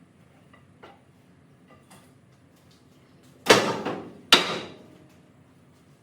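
A few light knocks, then two loud crashing impacts less than a second apart, each dying away over about half a second.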